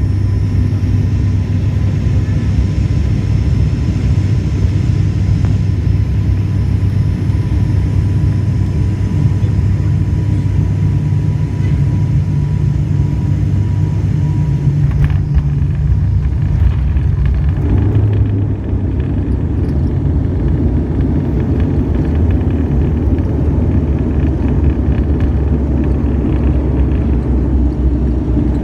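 Airliner cabin noise during landing: a steady deep rumble of engines and airflow with a faint steady whine, a sharp knock about halfway through, and then a rougher, heavier rumble, the sound of touchdown and the rollout on the runway.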